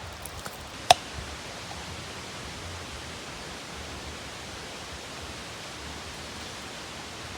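Steady, even hiss of background noise, with a single sharp clink about a second in that rings briefly.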